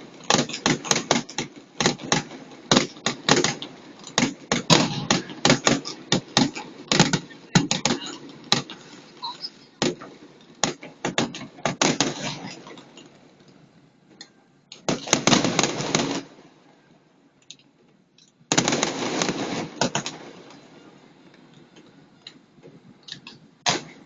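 New Year fireworks going off in rapid bangs and crackles, dense and loud for the first dozen seconds and then thinning out. Later come two dense crackling bursts of a second or so each, and one more bang near the end.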